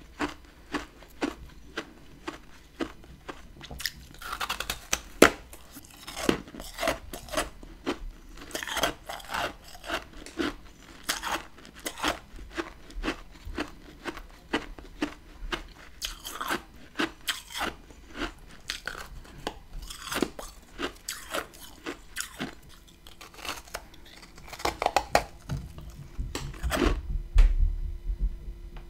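Close-miked crunching and chewing of hard chunks of humidifier freezer frost, sharp crunches coming about twice a second, with a low rumble near the end.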